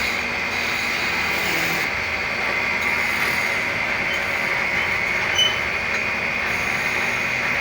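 Wood lathe running with steady scraping against the spinning wooden bed leg, and one brief louder tick about five seconds in.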